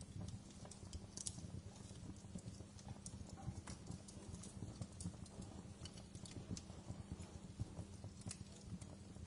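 Wood fire burning in a fireplace, crackling with irregular snaps and pops over a steady low rumble of the flames.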